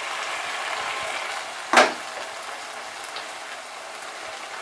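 Tomato, ginger and green-chilli masala frying in oil in a pan, with a steady sizzle. A single sharp tap sounds about two seconds in.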